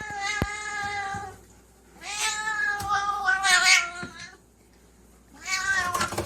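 Domestic cat meowing in three long, drawn-out calls. The middle call wavers up and down in pitch, and a short click sounds just under half a second in.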